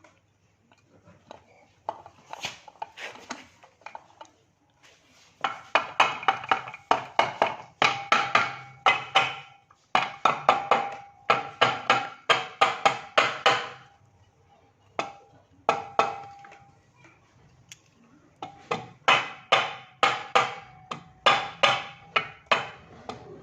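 Hammer striking metal in bursts of rapid blows, about three to four a second, each blow ringing briefly, with short pauses between bursts.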